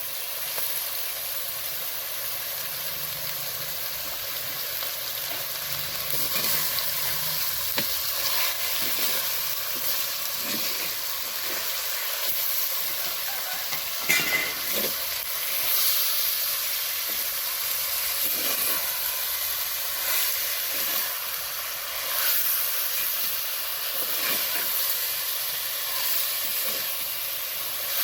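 Chicken pieces sizzling in hot oil in a pan with onions and spices, with a spoon stirring and scraping the pan every second or two.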